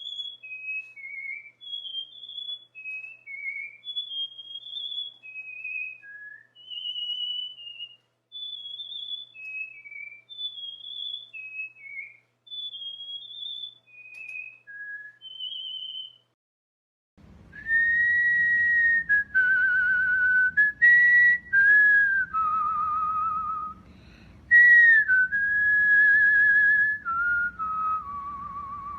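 Cockatiel whistling a song: a run of short, high whistled notes, then, after a brief gap about halfway through, a louder passage of longer, lower whistled notes with a wavering trill over a background hiss.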